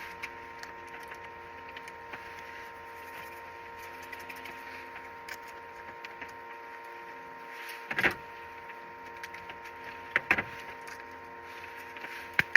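Utensils and dishes clinking and knocking as food is served: single knocks about eight and ten seconds in, then a quick run of five or six near the end, over a steady faint hum.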